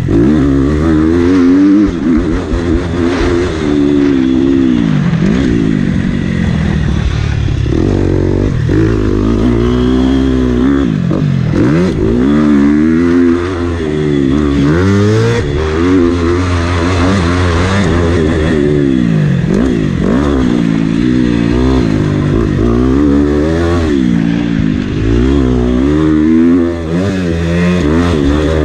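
Motocross bike engine revving hard and falling back over and over as the bike is ridden round a dirt track, the pitch climbing through each gear and dropping off into corners.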